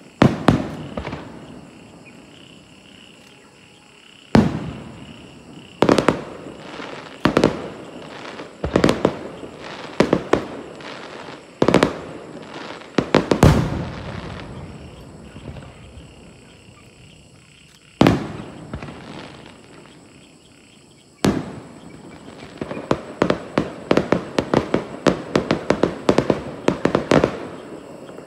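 Aerial firework shells bursting, single loud bangs every one to four seconds, each trailing off in a long rolling echo. From about two thirds of the way in, a dense run of quicker, smaller pops and crackles.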